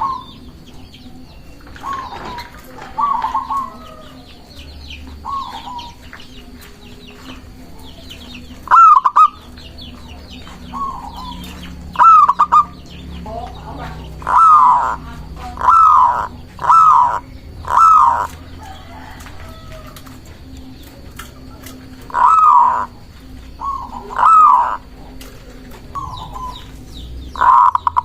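Zebra dove (perkutut) cooing: short, rippling call phrases pitched around 1 kHz, repeated irregularly, with a dense run of calls from about halfway through and again near the end. Faint high chirps of small birds and a thin, steady high whine lie underneath.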